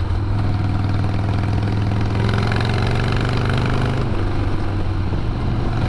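A 2002 Harley-Davidson Sportster 1200's air-cooled V-twin engine running steadily, heard from the bike itself.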